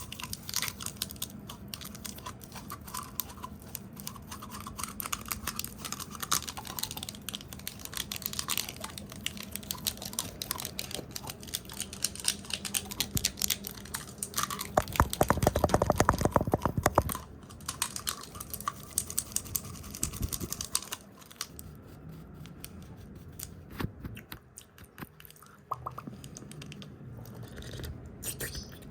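Fast, dense ASMR tapping, brushing and hand sounds close to the microphone, with a louder flurry of rapid taps a little past the middle.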